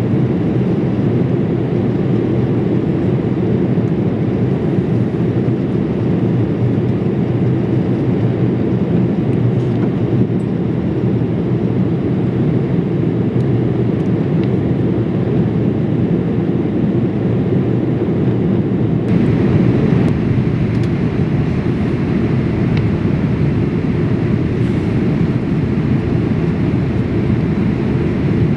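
Boeing 787-8 cabin noise in flight: a steady low rush of engines and airflow. About two-thirds of the way in it changes abruptly, with more high hiss.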